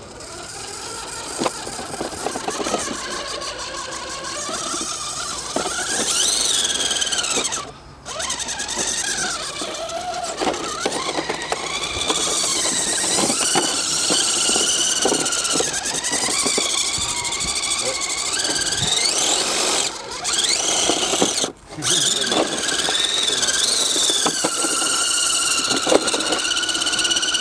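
Tiny RC crawler trucks' small electric motors and gearboxes whining, the pitch rising and falling as the throttle changes, with two brief stops about eight and twenty-one seconds in.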